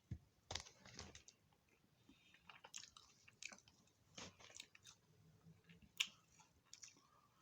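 A person chewing and biting food close to the microphone: faint, scattered crunches and wet mouth clicks, with one sharper click about six seconds in.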